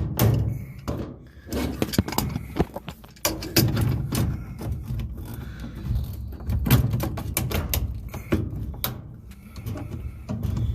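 Irregular knocks, clunks and scraping from hands working a washing machine's drain pump and hose off their fitting.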